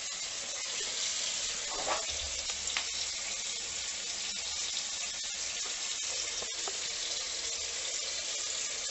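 Water running with a steady hiss, with a few faint clicks.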